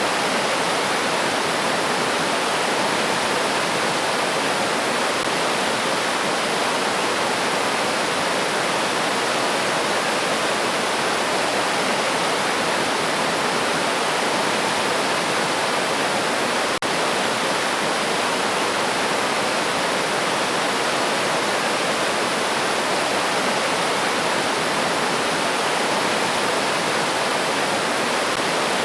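Steady rushing of a river's flowing water, even and unbroken, with a momentary dropout about two-thirds of the way through.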